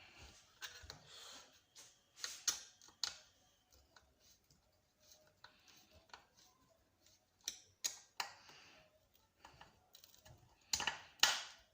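Irregular clicks, taps and short scrapes of hand tools and metal parts being handled, as screws and fittings on a barber chair's headrest are worked; a cluster of louder clicks and scraping comes near the end.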